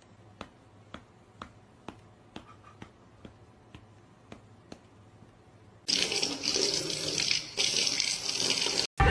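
Faint clicks about twice a second, then running water from about six seconds in.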